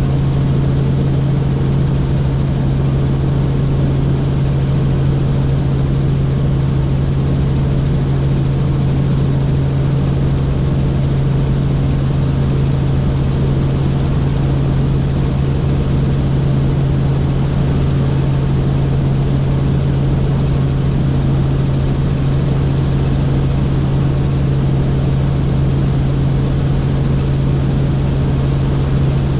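Helicopter's engine and rotors running steadily: a constant low hum with an even rushing noise above it, unchanging throughout.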